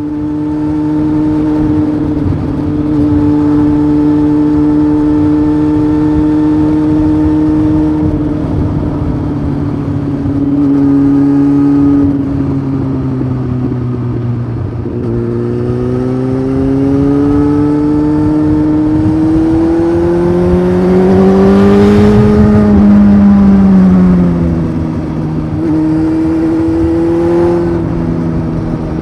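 Honda CBF 600's inline-four engine, with a titanium aftermarket sport exhaust, running under way on the road. The revs dip about halfway through, climb steadily to the loudest point about three quarters of the way in, then fall back.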